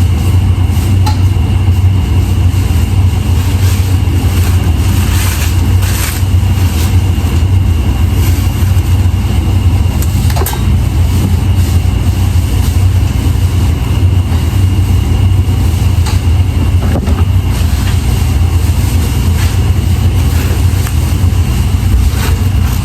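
A loud, steady low machine hum with no break, with a few faint clicks over it.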